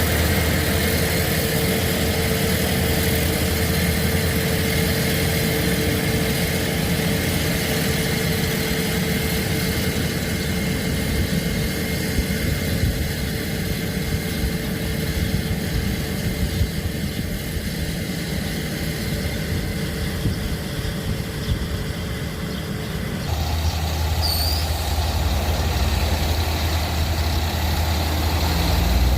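A heavy engine running steadily with a low rumble; its low hum grows stronger about 23 seconds in. A bird chirps briefly soon after.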